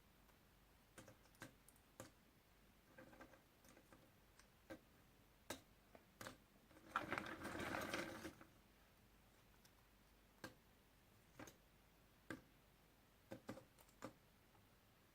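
Puzzle pieces being handled: scattered soft clicks and taps as pieces are picked up and set down, and one longer rustle of pieces being stirred about halfway through.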